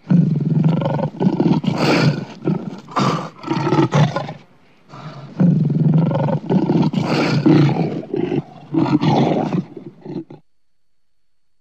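Lion roaring in two bouts of closely repeated calls, each about four to five seconds long, with a short pause between them. It stops about ten seconds in.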